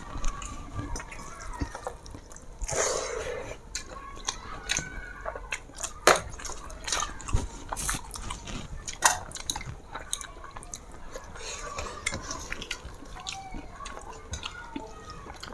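Eating from a plate: scattered sharp clicks and taps of food and utensils against the plate, with chewing, and a short rustling burst about three seconds in.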